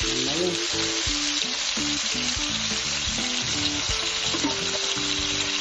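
Blended chili, garlic and onion paste sizzling steadily as it sautés in hot oil in a wok. Background music with a melody plays underneath.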